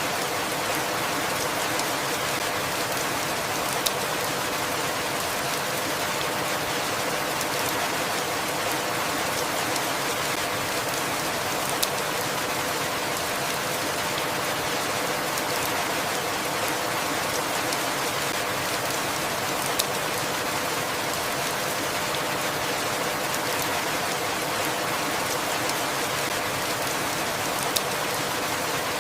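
Steady, even rainfall: a dense hiss of drops with no change in strength, and a light click about every eight seconds.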